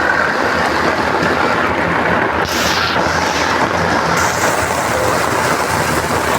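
Heavy rain pouring down: a loud, steady, dense hiss, brightening briefly about two and a half seconds in.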